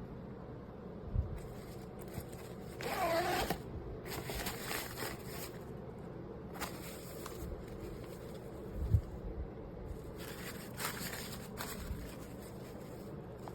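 Suitcase zipper being pulled in several raspy strokes, the longest a few seconds in, with a couple of dull knocks from the case being handled.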